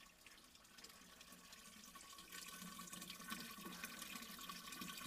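Water running from a spring's outflow, faint at first and louder from about two seconds in.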